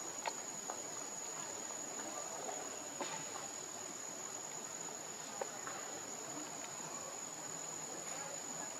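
Insects calling in one steady, unbroken high-pitched drone, with a few faint clicks over it.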